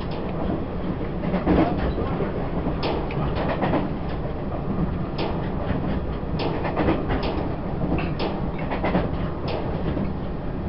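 Taiwan Railways E1000 push-pull Tze-Chiang Limited Express running along the line: a steady rumble from the wheels and running gear, with sharp clacks from the wheels over the track every half second to a second.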